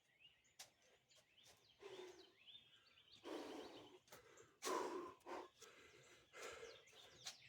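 Near silence, broken by a few faint heavy exhaled breaths, about midway and again a little later, and by faint bird chirps. The breathing fits someone getting his breath back between sets of pull-ups.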